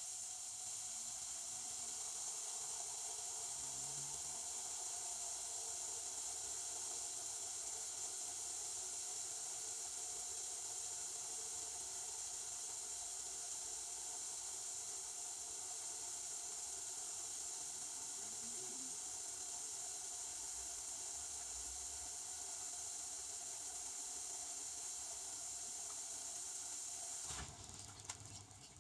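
Devanti benchtop dishwasher running, a steady hiss of water spraying inside the machine that cuts off suddenly about 27 seconds in.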